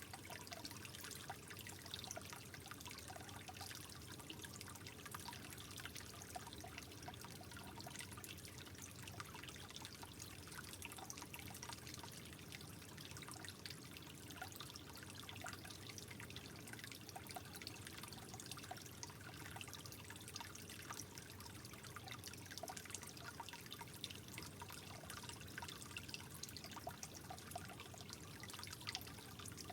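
Soft, steady trickle of running water, with many small irregular drips and splashes.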